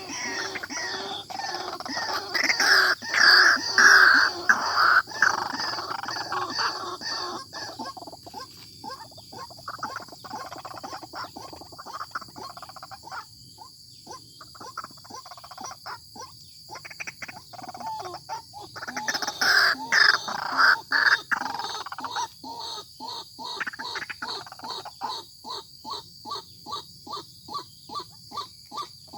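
White-breasted waterhen calling loudly and persistently: harsh bursts of calling near the start and again about two-thirds of the way in, then a long run of short repeated notes, about three a second.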